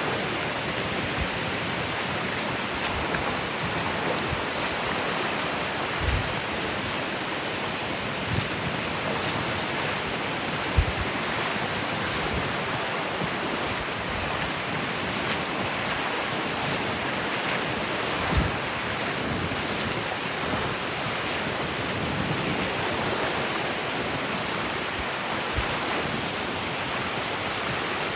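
Steady wash of ocean surf breaking and running up a sandy beach, with a few soft low thumps here and there.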